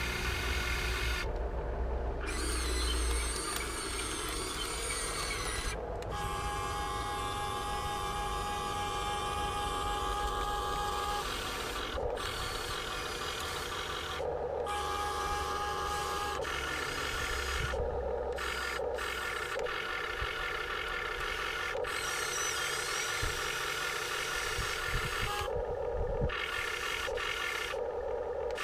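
Electric gear motors of a Huina 1580 all-metal RC excavator whining through their gearboxes in runs of a few seconds, starting, stopping and changing pitch as different functions are worked, with some rubbing and scraping of metal.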